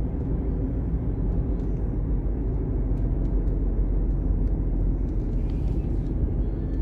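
Steady road and engine rumble inside a moving car's cabin, with faint scattered light ticks.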